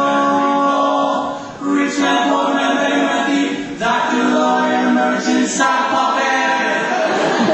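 Male barbershop quartet singing a cappella in close harmony, holding sustained chords that change every second or two.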